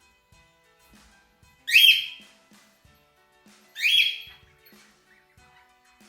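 English budgerigar giving two loud, harsh calls about two seconds apart, each under a second long.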